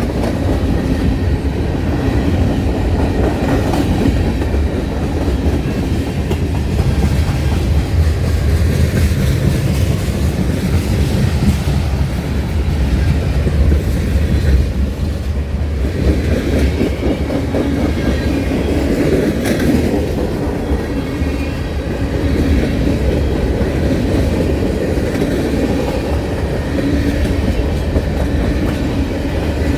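Freight train cars rolling past steadily, a loud low rumble with the wheels clacking over the rail joints.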